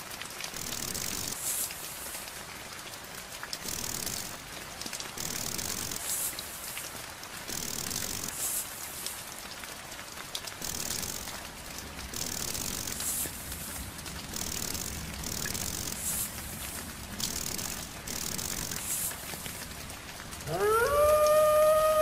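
A snake hissing in short repeated bursts, about one a second. Near the end a wolf begins to howl, rising in pitch and then holding steady, much louder than the hissing.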